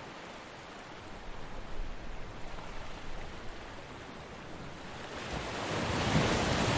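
Ocean surf washing on a beach, a steady hiss of water, with a wave building and breaking more loudly near the end.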